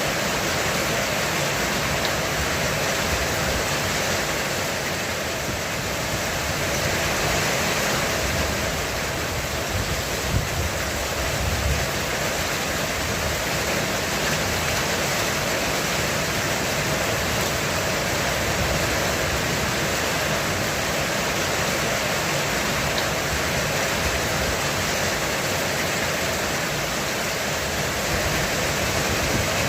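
Heavy rain falling steadily on a roof, a dense even hiss. There is a brief low rumble about ten seconds in.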